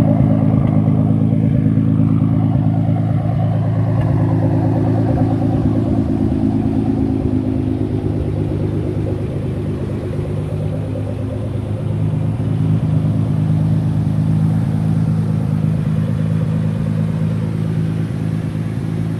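A car engine running steadily at a low, even pitch, easing slightly lower about halfway through before settling again.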